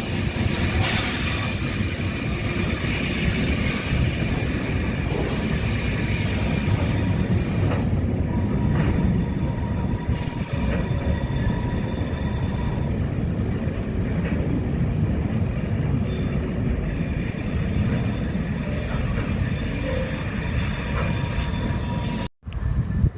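A train running past on the rails with a steady heavy noise of wheels on track and high thin wheel squeal, until it cuts off suddenly near the end.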